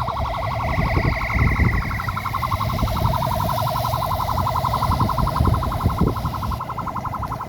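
An electronic siren sounding a rapid, even pulsing tone, over a low rumble.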